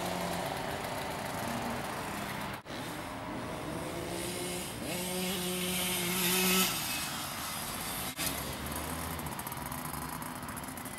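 Small child's minicross motorcycle engine running as it rides, its pitch rising several times as the throttle opens. The sound drops out briefly twice, about two and a half and eight seconds in.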